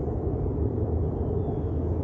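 Steady low rumbling noise with no clear events.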